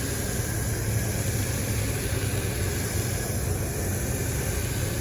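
Steady low mechanical hum with a constant hiss over it.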